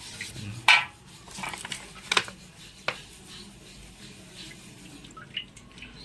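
Liquid splashing and dripping with a few sharp clicks of metal parts, the loudest about a second in: motorcycle engine parts being handled and washed in petrol.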